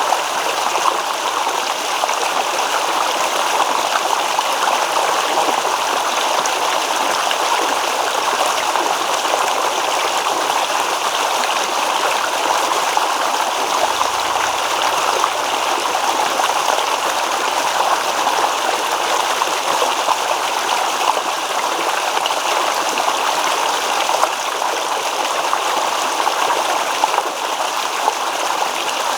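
Babbling stream: water running steadily over stones, an even rushing splash with no pauses.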